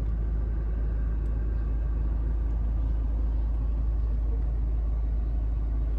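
Steady low rumble of a car's interior while driving.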